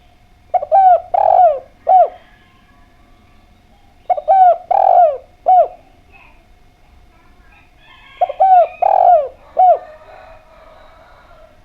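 Spotted dove (derkuku) cooing. It gives three phrases of three or four notes each, a phrase about every three and a half seconds.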